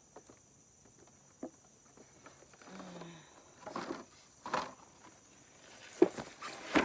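Rustling and light knocks of beehive parts and frames being handled and pulled apart, with two sharper clicks near the end, over a steady faint high-pitched hiss.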